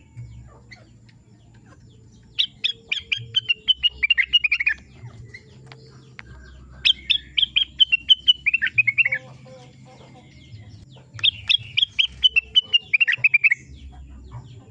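Rengganis, the bird also called cucak wilis (blue-winged leafbird), singing: three phrases about four and a half seconds apart, each a quick run of sharp notes that falls in pitch. A faint steady hum runs underneath.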